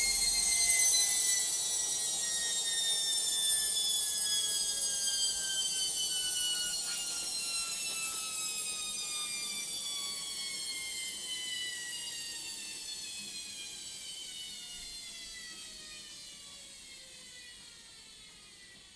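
Logik washing machine's motor and drum winding down at the end of the final spin: a high whine of several tones falls steadily in pitch and fades away.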